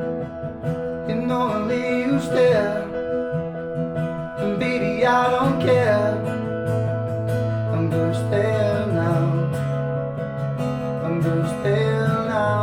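Acoustic guitar strumming chords as a live acoustic song goes on. A gliding melody line, probably wordless vocals, comes in and out over it several times.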